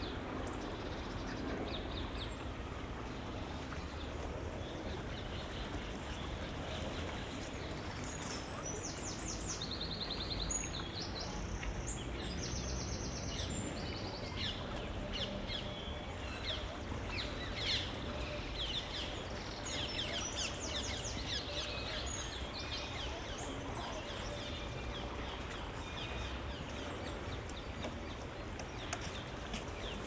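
Small birds singing, with quick repeated chirps and trills, thickest through the middle of the stretch, over a steady low background hush.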